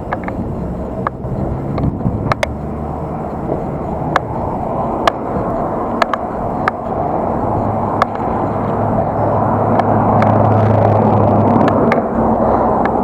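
Wind and road rush from a bicycle on the move, picked up by the action camera, with scattered sharp clicks and rattles. About eight seconds in the rush grows louder and a low hum joins it for about four seconds.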